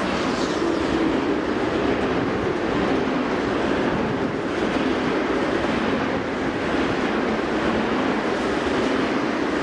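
Freight train of empty wagons running past on the rails, a steady, even noise of wheels on track.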